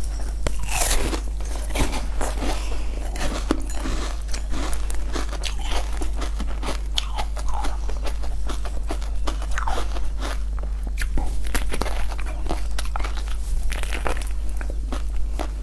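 Close-miked crunching bites and chewing of frozen food: dense crackling crunches with wet squelches throughout, over a steady low hum.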